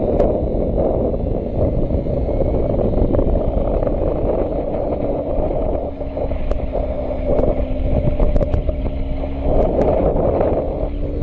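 Motorcycle ride picked up by a camera's built-in microphone: a dense, steady rush of wind and engine noise, with a few light clicks and a faint steady engine tone in the middle.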